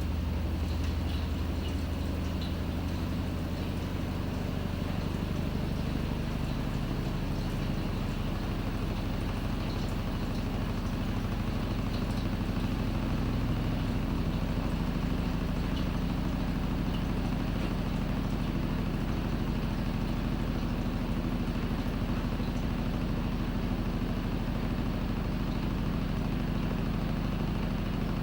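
Panasonic NA-FA100H9 top-loading washing machine running mid-cycle: a steady motor hum with low tones that shift in pitch about five seconds in.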